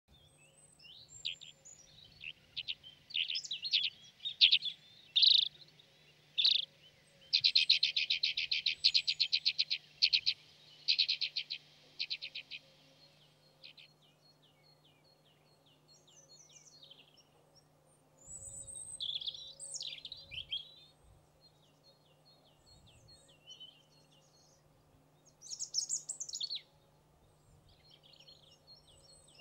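Alpine accentor chirping and singing: scattered chirps, then a fast rattling trill lasting several seconds in the first half, followed by sparser, quieter chirps and call phrases.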